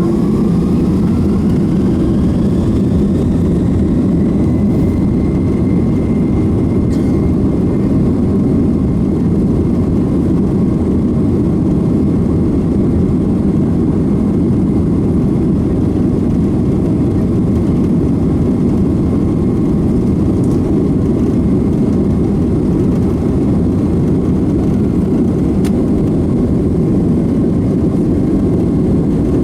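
Boeing 767-300's jet engines heard from inside the cabin: a whine rises over the first few seconds as they spool up, then a steady loud low rumble at high thrust.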